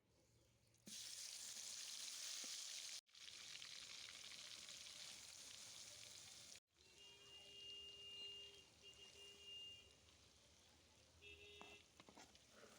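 Food sizzling in hot oil in a cooking pot, starting about a second in and cut off abruptly twice. After the second cut the sizzle turns fainter and a faint steady high-pitched tone comes and goes.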